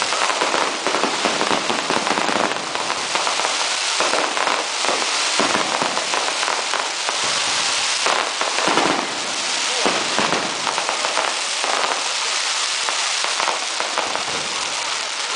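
Fireworks going off: a dense, continuous crackle of many small pops with a hiss, and a few heavier pops among it.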